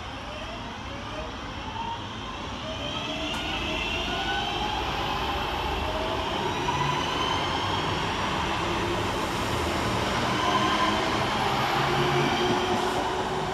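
Class 323 electric multiple unit pulling away from the platform, its traction motors whining in several tones that rise steadily in pitch as it accelerates, over a rumble of wheels on the rails that grows louder.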